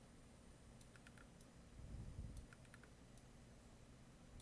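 Faint computer keyboard keystrokes, a few quick clicks at a time in several short clusters.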